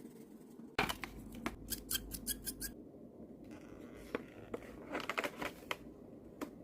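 Quick, sharp snipping clicks in two short runs, with soft handling noise between them, as items in an art-supplies box are handled and cut.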